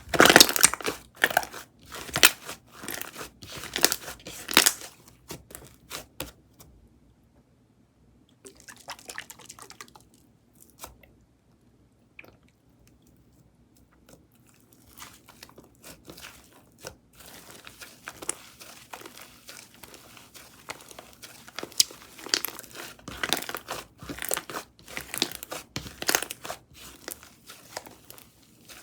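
Pistachio java chip frappe slime being kneaded and pressed by hand, giving dense crunching and crackling. The crunching is loudest at the start, pauses for a few seconds in the middle, then picks up again.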